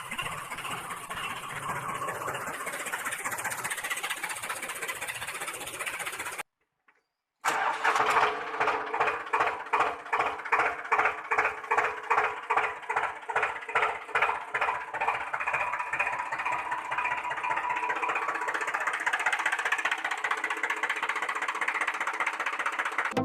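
Small electric toy motor whirring steadily. After a brief cut it runs on with a regular knocking about twice a second.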